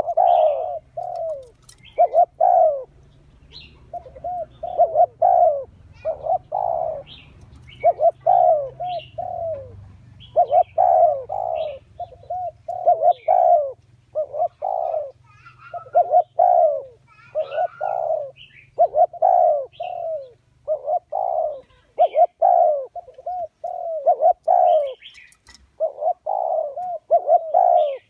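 Spotted dove cooing over and over in short phrases of several notes with brief gaps, a decoy call meant to draw wild doves. A faint low hum sits underneath until about three quarters of the way through.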